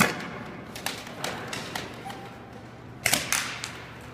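Nerf blasters firing and foam darts striking: scattered sharp clicks and thuds, with a loud one at the very start and a quick cluster about three seconds in.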